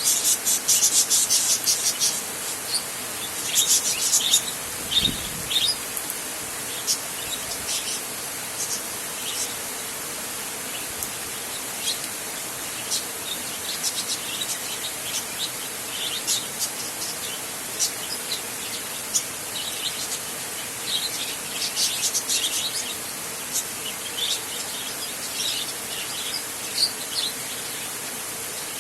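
Birds chirping in quick, repeated bursts over a steady rain hiss; the chirps come thickest near the start and again in clusters later on.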